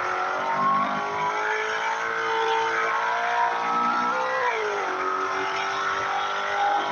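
Car engine running steadily at fairly high revs, its pitch dropping briefly about four and a half seconds in.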